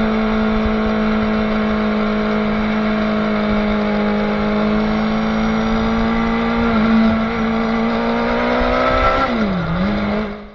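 Motorcycle engine heard from onboard, running hard at a steady high pitch that climbs slowly, with a brief break about seven seconds in. Near the end the pitch drops sharply and comes back up, and then the sound fades out.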